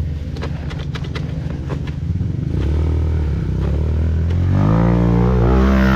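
Honda CRF230F's air-cooled single-cylinder four-stroke engine running on a trail ride, with sharp clicks and knocks during the first two seconds. The engine revs rise from about four and a half seconds in.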